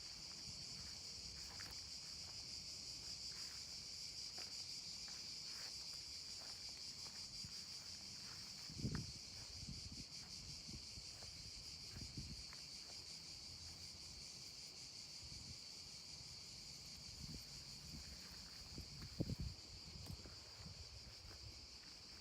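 Steady, faint, high-pitched buzzing of an insect chorus, with a few soft low thumps, the loudest about a third of the way in and again near the end.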